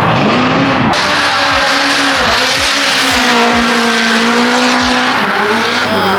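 Competition drift cars sliding past at close range, very loud: engines held at high revs with the pitch rising and falling, over the continuous screech of spinning tyres.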